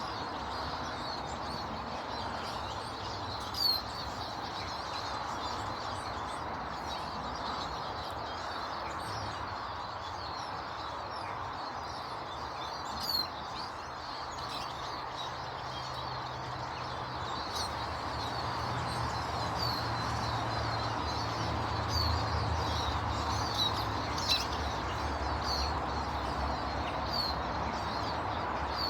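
Small birds chirping: many short, high calls scattered throughout over a steady background hiss. A low hum comes in about a third of the way through and grows louder.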